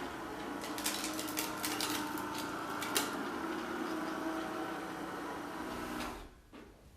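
Kärcher K 65 Plus cordless sweeper's battery-driven brush running with a steady hum and a scatter of sharp clicks and rattles, densest in the first few seconds. About six seconds in it cuts out, its pitch falling briefly as it winds down.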